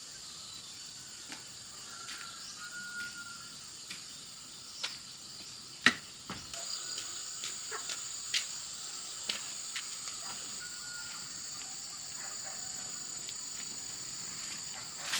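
Steady high-pitched chorus of insects, with a second, higher-pitched insect joining about six and a half seconds in. Scattered light clicks and knocks sound over it, one sharp knock about six seconds in.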